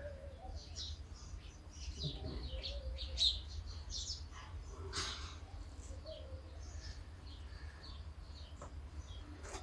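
Small birds chirping, many short high chirps throughout, over a steady low rumble.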